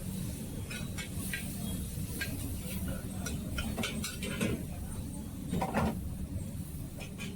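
Busy hawker food-court ambience: a steady low rumble with background voices and scattered clinks and clatters of dishes and utensils.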